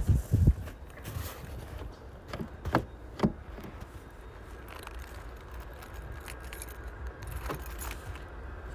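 A few scattered sharp clicks and knocks from handling things around a snow-covered car, over a steady low rumble of wind on the microphone.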